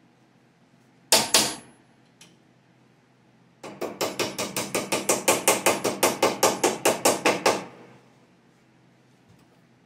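Metal tapping on the plow's mounting hardware: two sharp knocks about a second in, then a quick, even run of about twenty taps, roughly five a second, lasting about four seconds.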